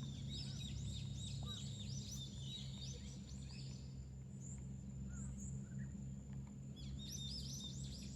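A songbird singing rapid runs of high, arching chirps in two bouts, one in the first half and one starting near the end, over a steady low hum.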